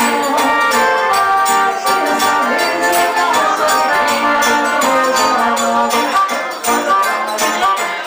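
Live forró band playing: an accordion melody over a steady zabumba drum and hand-percussion beat, with guitar.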